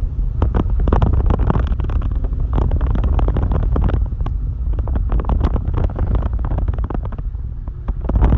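Exhaust of a Mitsubishi Lancer with its muffler and resonator deleted, running with a steady low rumble and rapid irregular clicks over it: a gurgle.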